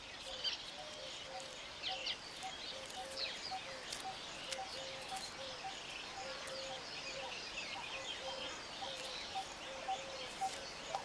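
Birds chirping with scattered short high calls, over a low note that repeats about twice a second.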